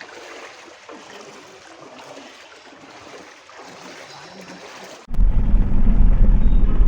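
Floodwater splashing and flowing as a steady noisy wash. About five seconds in, it cuts abruptly to a much louder low rumble.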